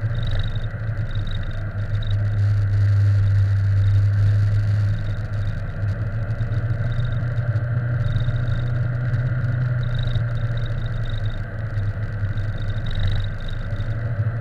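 Steady low drone of a vehicle in motion, a little louder from about two to five seconds in.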